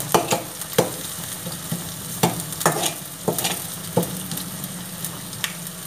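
Sliced onions and grated ginger frying in oil in a kadhai, with a steady sizzle. A perforated metal spoon scrapes and taps against the pan about ten times at an irregular pace as they are stirred.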